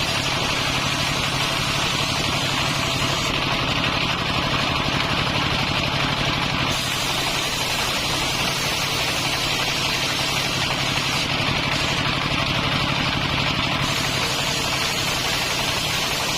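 Circular saw machine running steadily, with a constant low drone and a strong hiss above it; the highest part of the hiss drops away and comes back twice.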